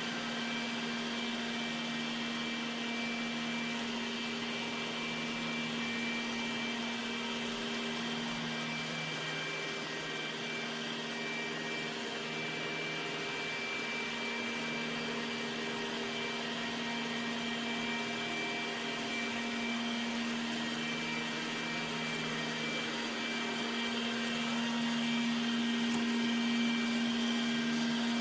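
iRobot Roomba Combo j7+ robot vacuum running, a steady motor hum and whine that eases briefly about nine seconds in and grows a little louder near the end.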